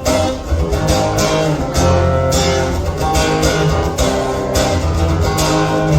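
Live instrumental song intro: guitar chords strummed in a steady rhythm over sustained low bass notes.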